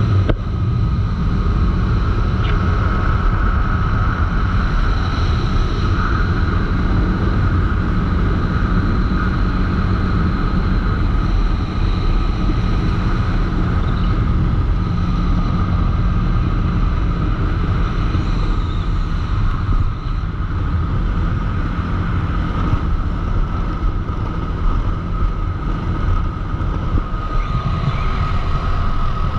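CFMoto ATV engine running at a fairly steady pitch while the quad is ridden, with a low rumble beneath it.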